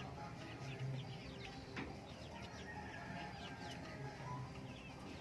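A flock of native chickens clucking and cheeping, with many short high calls overlapping throughout.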